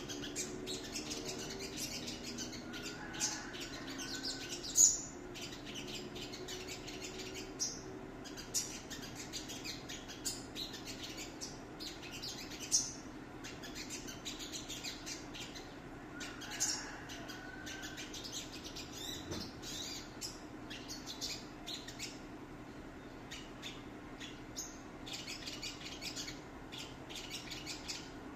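A bird chirping and singing in a long run of quick, closely spaced high notes, with a few louder calls standing out, over a faint steady low hum.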